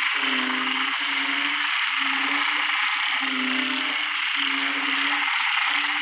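Narrow-mouthed frogs (Thai อึ่ง) calling in a wet-season chorus: low croaks repeated about once a second, each under a second long, over a steady high hiss.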